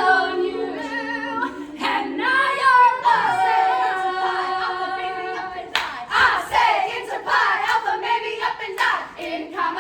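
A cappella vocal group singing the held closing notes of a medley, followed about six seconds in by audience applause.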